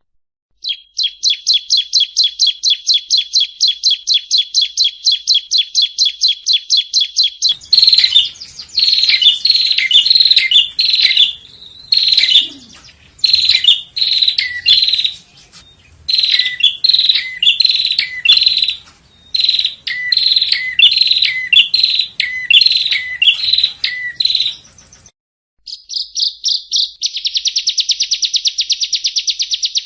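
Yellow-bellied prinia song, spliced from separate recordings. A fast, even trill of high chirps runs for several seconds. About a third of the way in it cuts to phrases of short, falling chirps with pauses between them. After a brief gap near the end a fast trill starts again.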